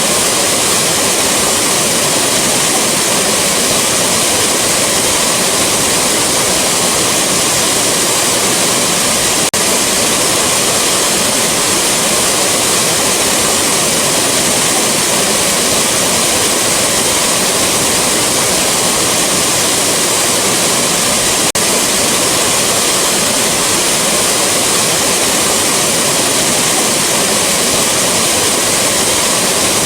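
Rushing waterfall: a loud, steady roar of falling water that never lets up, broken only by two split-second dips, about ten and twenty seconds in.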